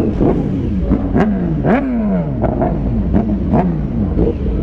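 Sport-bike engine revved in several sharp throttle blips, its pitch shooting up and sliding back down each time, over a steady low rumble.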